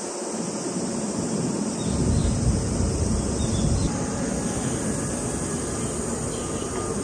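Steady hiss and hum of a stopped Kintetsu Vista Car double-decker train standing at a platform with its doors open, with a heavier low rumble setting in about two seconds in.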